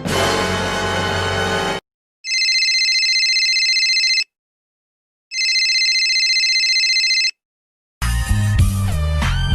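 Telephone ringing twice, each ring a trilling electronic tone about two seconds long, with about a second of silence between. A musical sting ends just before the first ring, and music with guitar starts near the end.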